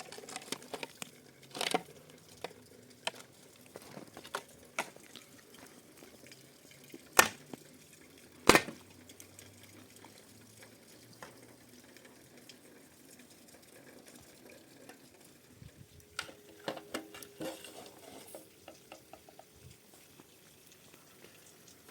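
Scattered light clicks and knocks of things being handled. Two sharp knocks come a second and a half apart about a third of the way in, and a run of rattling clicks comes near the end.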